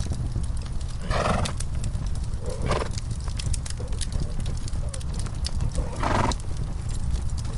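Horses in a stall making three short vocal sounds, about a second in, shortly after, and again near the end, over a steady crackling fireplace with many small pops and a low rumble.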